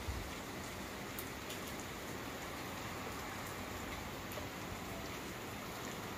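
Steady rain falling on floodwater and foliage: an even hiss with scattered droplet ticks. There is a brief low thump right at the start.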